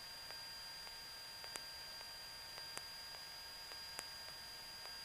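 Faint electrical noise on a cockpit audio line: a steady hiss with a thin, high, steady whine and a faint tick about every second and a bit. No engine or voices come through.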